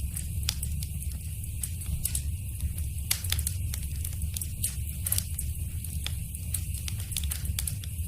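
Wood fire burning in a fireplace: irregular sharp crackles and pops, several a second, over a steady low rumble and hiss.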